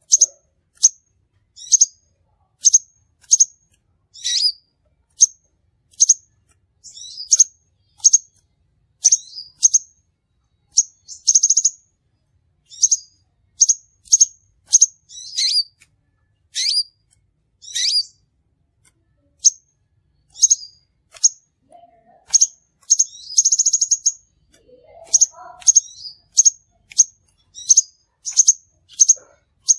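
Crimson sunbird calling: short, sharp, high-pitched chirps repeated about once or twice a second, with a couple of brief rapid trills.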